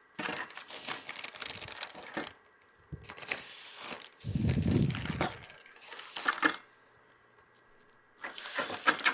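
Packaging being handled: crinkling, rustling and clicking in several short bouts, with a dull thump about four and a half seconds in.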